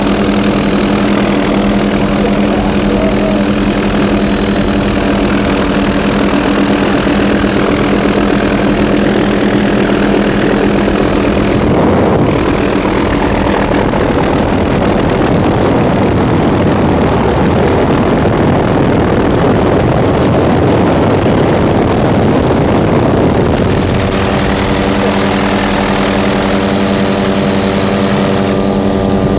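A steady engine drone, like that of a propeller aircraft, with a loud rushing noise that swells up about twelve seconds in and drops away about twelve seconds later.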